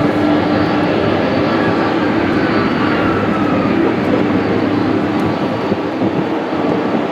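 Airliner's engines as it passes close by, a loud steady noise with a whine that sinks slightly in pitch.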